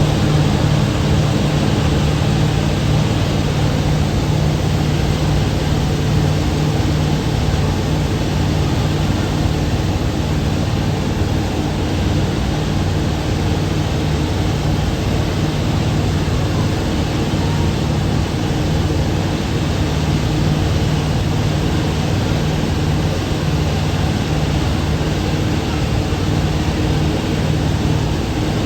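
Thames Clipper river bus under way: the steady drone of its engines, a low even hum, under a constant hiss of rushing air and water.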